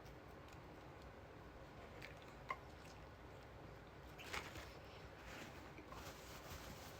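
Faint close-up eating sounds: chewing a chicken-and-bacon croissant sandwich, with a sharp click about two and a half seconds in and a brief louder noise a little after four seconds.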